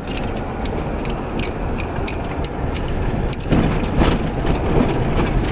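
Car driving over a rough, unpaved road: steady engine and tyre rumble with frequent rattles and knocks, swelling louder about three and a half seconds in.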